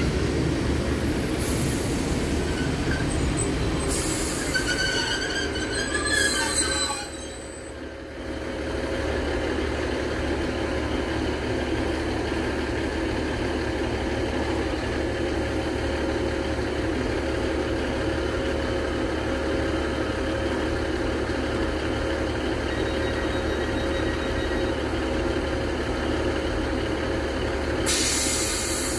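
Northern Class 150 diesel multiple unit pulling into the platform with its wheels and brakes squealing, coming to a stop about seven seconds in. It then stands with its diesel engines idling steadily, and there is a short burst of hiss near the end.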